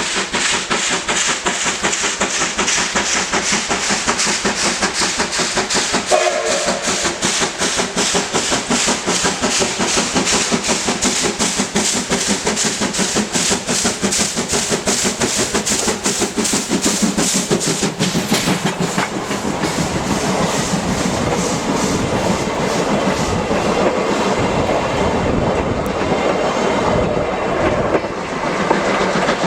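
C11 steam tank locomotive working past at close range, its exhaust beating in a fast, even rhythm. About two-thirds of the way through the beat fades into a steadier rolling rumble of wheels on rail.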